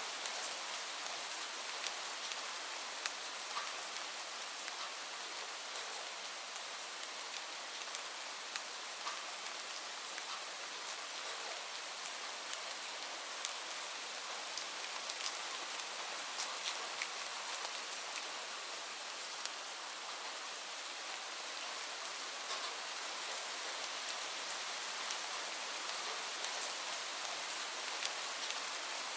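Steady rain falling on leaves: an even hiss with many sharp drop taps scattered through it.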